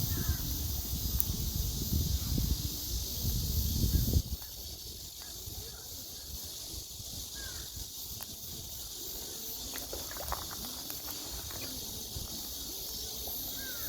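Outdoor ambience: a steady high hiss, with low rumbling bumps for the first four seconds that stop suddenly, and a few faint short chirps after.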